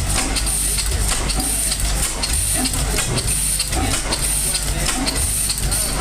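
Old Evans Manufacturing Company engine running steadily, with a low hum and a regular, repeating hiss.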